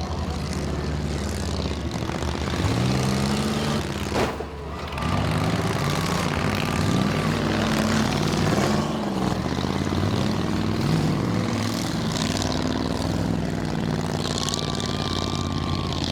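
Several demolition derby cars' engines revving up and down together, with one sharp bang about four seconds in.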